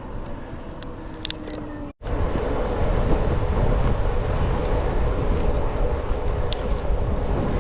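Wind rushing on the microphone and road noise from a bicycle riding along. The sound drops out for an instant about two seconds in, then comes back as a louder low rumble.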